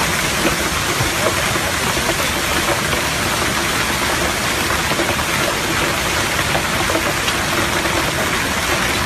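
Heavy rain falling in an even, steady hiss.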